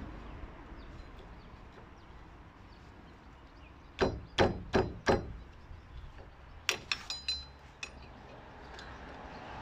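Four sharp hammer blows on metal, a little under half a second apart, followed about a second and a half later by a metal clink that rings briefly.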